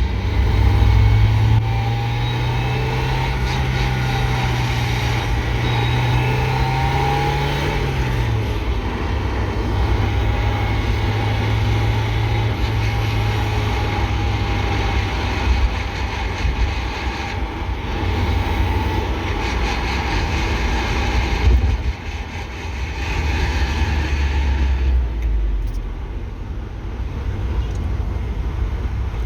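1993 Mazda Miata's 1.6-litre four-cylinder engine and drivetrain heard from the cabin while driving, the engine note holding steady and then dropping about eight seconds in as the car slows. A grinding noise on deceleration comes from in front of the shifter, which the owner suspects comes from the clutch, driveshaft or power plant frame.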